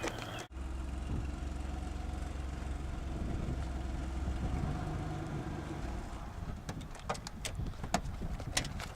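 Steady low rumble of a running vehicle. Several sharp clicks or knocks come in the last few seconds.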